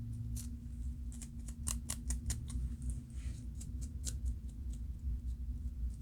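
Scalp being scratched to loosen dandruff flakes: a run of quick, crisp scratching clicks, several a second, with a short scraping hiss about three seconds in. A steady low hum runs underneath.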